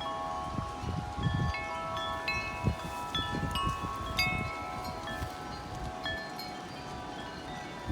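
Several sets of wind chimes ringing hard in a strong, gusty wind, with many strikes overlapping and ringing on. Wind gusts buffet the microphone with a low rumble.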